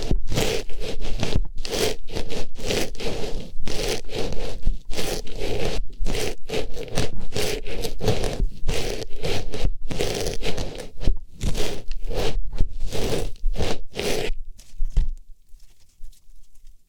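Artificial flower pushed into and rubbed around a microphone's ear: close, dense scratchy rustling, several strokes a second, dying away about fifteen seconds in.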